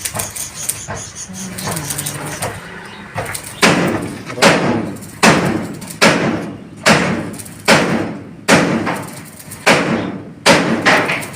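A run of about ten sudden knocks or thuds, evenly spaced a little under a second apart, beginning about three and a half seconds in, each fading quickly.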